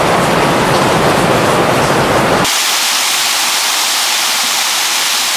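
Steady heavy rain, a dense even hiss. About two and a half seconds in, the fuller low part of the sound cuts out suddenly, leaving only a thinner high hiss.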